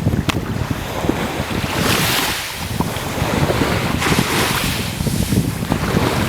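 Sea water washing and hissing in swells about every two seconds, with wind rumbling on the microphone.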